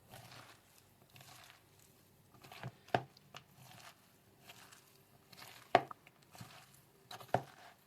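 Shredded cabbage salad being mixed by hand in a bowl with its oil-and-vinegar dressing: soft, scattered crunching and wet rustling, with a few sharper taps.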